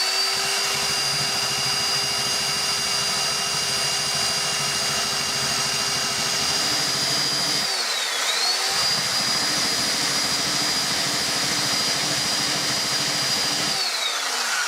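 Electric sander running with a steady high whine while carving into a piece of wood. Its pitch dips briefly and recovers a little past halfway, then starts to fall near the end as it winds down.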